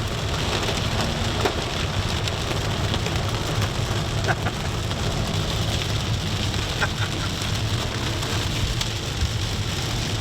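Heavy rain beating steadily on a moving vehicle, over the low rumble of engine and road noise, with a few sharper ticks from harder drops.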